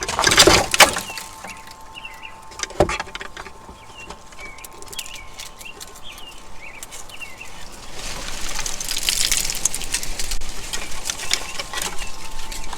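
Small birds chirping again and again, with a loud rustling burst in the first second and a single sharp knock about three seconds in. A hiss builds up about eight seconds in, with a faint steady high tone underneath.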